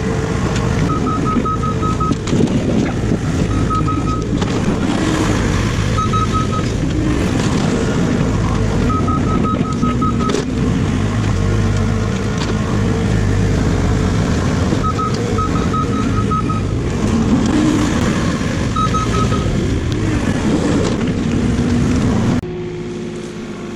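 Excavator engine running hard under hydraulic load while digging, with several short runs of rapid high-pitched electronic beeps over it. The sound cuts off abruptly near the end.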